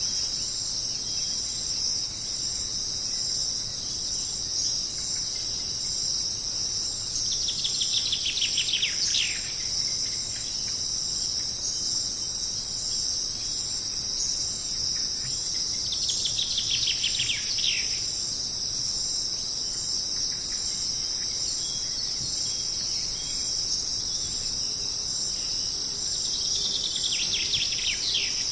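Jungle ambience: a steady, high-pitched chorus of insects such as crickets, with a bird's rapid descending trill breaking in three times, about ten seconds apart.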